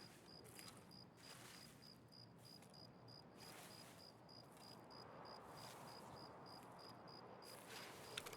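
Faint insect chirping, an even high-pitched pulse about four times a second, over quiet outdoor background hiss.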